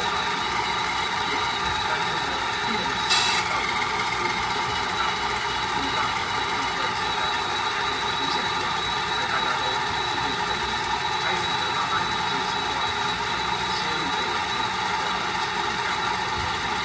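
Tamiya Volvo FH16 RC truck's engine sound idling steadily, with one short click about three seconds in.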